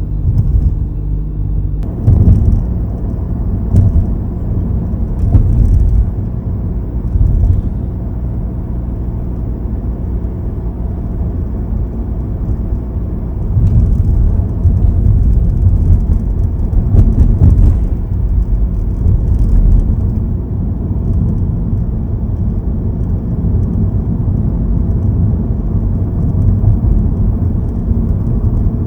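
Cabin noise of a Nissan Note Aura on the move: steady low road rumble, with brief faint ticks or rattles now and then, the kind of abnormal interior noise the owner is tracking down.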